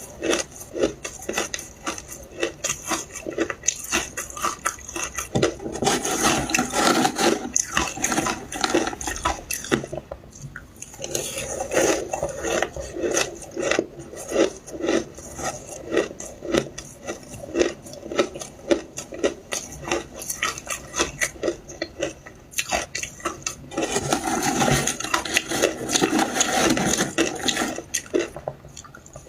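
Close-up chewing of frozen shaved ice dusted with milk powder: a dense run of crunching and crackling that comes in waves, with a few louder stretches of bites.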